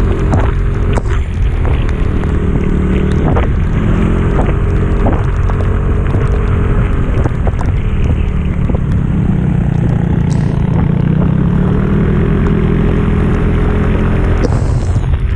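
Motorcycle engine running steadily on an uphill climb, with wind noise on the microphone and scattered short clicks.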